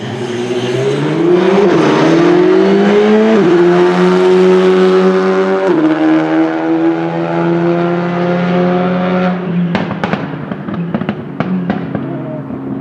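Rally car accelerating hard, its engine pitch rising through two quick upshifts, then lifting off the throttle with a rapid string of sharp exhaust pops and bangs.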